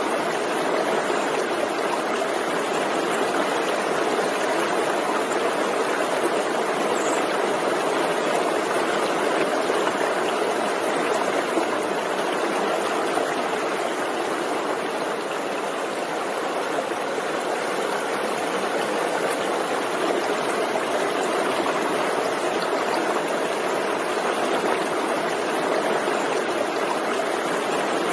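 Forest stream flowing over rocks, a steady rushing and babbling of water.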